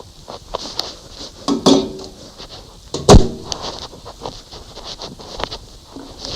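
Clicks and knocks of kitchen things being handled, with one loud knock about three seconds in.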